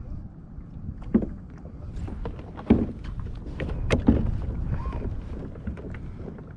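Wind buffeting the microphone on a small kayak at sea, with water slapping and splashing against the hull in irregular knocks, the loudest about a second in, near the three-second mark and about four seconds in.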